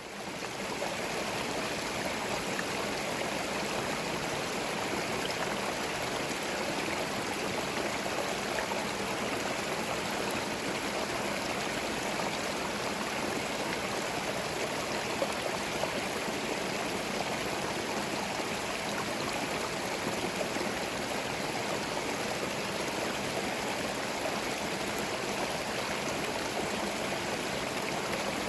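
Forest stream running: a steady rush of flowing water, fading in over the first second and then holding level.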